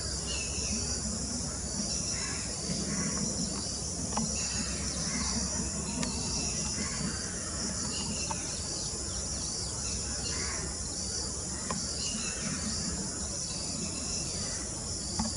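Steady, high-pitched chorus of insects, an unbroken drone, with faint short bird calls now and then.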